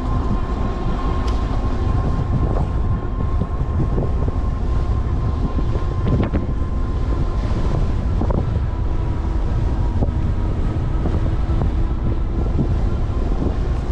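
Strong headwind buffeting the camera microphone on a moving e-bike: a loud, steady, low rumble. A thin steady whine runs under it.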